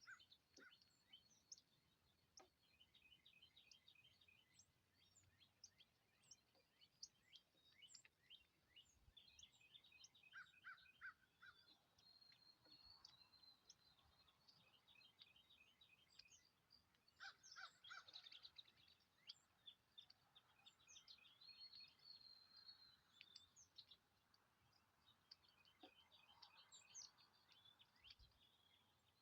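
Faint birdsong: several birds chirping and trilling in quick, overlapping high calls, with a harsher, louder call about two-thirds of the way in.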